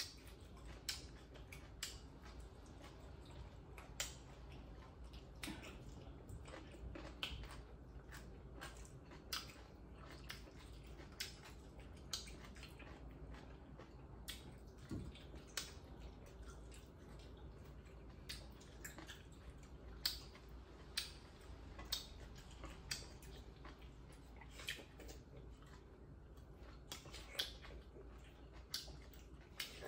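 Eating sounds: wet chewing and frequent short lip smacks from people eating boiled pork offal and watermelon with their fingers, quiet and irregular.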